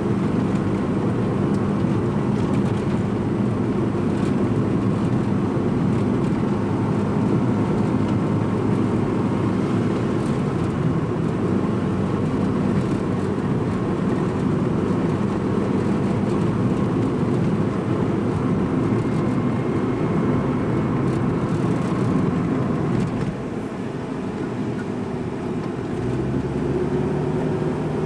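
Strong wind buffeting the microphone: a loud, steady low rumble that eases slightly near the end.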